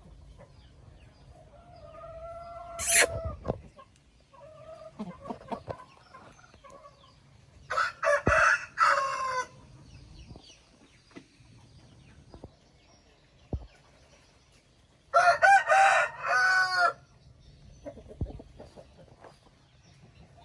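A rooster crows twice, each crow about two seconds long, first about eight seconds in and again near fifteen seconds. Softer, shorter chicken calls and clucks come between the crows.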